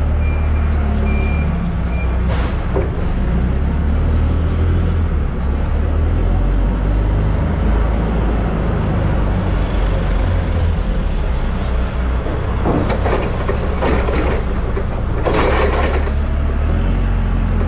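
Diesel engine of a farm loader working crates on its forks, running steadily with the revs shifting now and then. A couple of brief louder noises come near the end.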